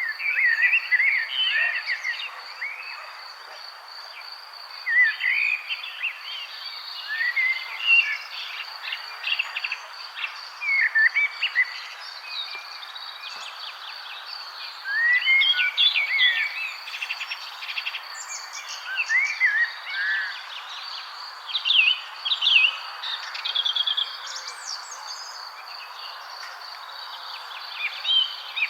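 Several songbirds chirping and singing in short, quick phrases, with gaps between bursts, over a steady high insect trill and a constant background hiss.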